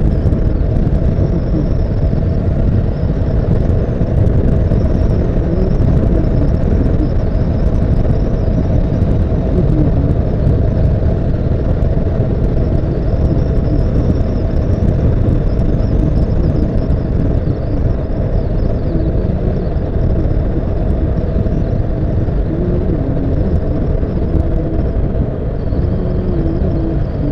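Honda CBF motorcycle on the move, picked up by an action camera: a steady rumble of engine and wind noise.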